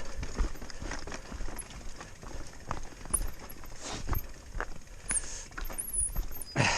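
Irregular clacks and knocks of footsteps and a mountain bike on a rocky trail, at an uneven walking pace.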